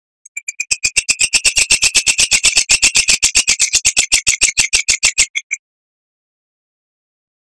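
Oriental magpie-robin (kacer) giving a fast, harsh rattling chatter of about ten notes a second for about five seconds, then stopping abruptly.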